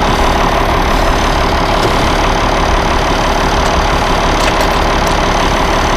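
An engine idling steadily: the machine used to move the seized Case 930, not the 930 itself.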